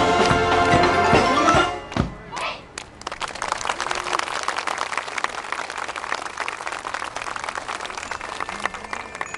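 A brass marching band plays the final bars of a piece, ending on a last hit about two seconds in. The audience then claps steadily.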